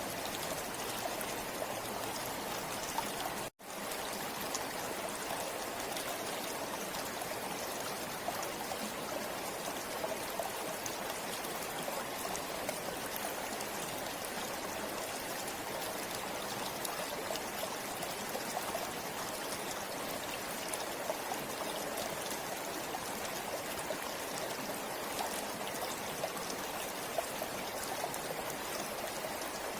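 River water flowing steadily, an even rushing wash with fine trickling crackles. A split-second dropout to silence comes about three and a half seconds in.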